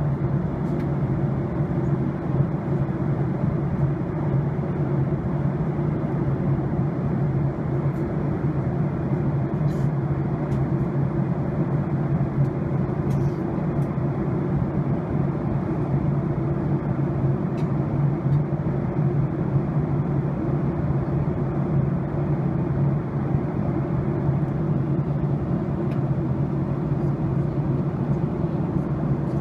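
Steady roar of a jet airliner's cabin noise in descent: engine and airflow noise heard from a passenger seat.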